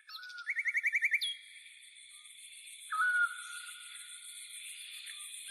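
Songbirds singing: a quick trill of about ten repeated whistled notes in the first second, and a short whistled note about three seconds in, over a thin steady high-pitched ringing.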